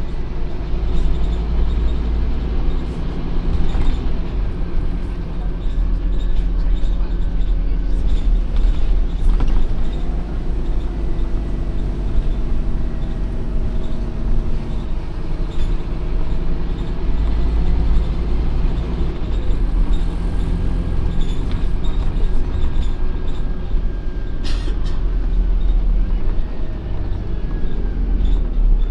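Scania OmniCity N230UD double-decker bus running: its diesel engine rumbles steadily, with the pitch rising and falling as it pulls away and eases off. A short hiss about three-quarters of the way through.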